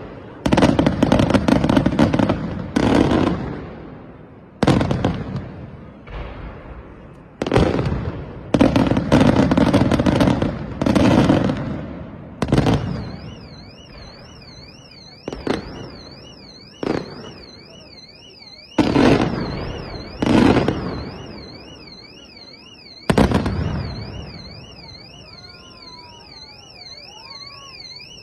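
Aerial fireworks shells bursting in a series of heavy booms, about a dozen, each followed by a rumbling decay, and packed closest together in the first half. From about halfway a car alarm wails with a fast warble and keeps going beneath the booms.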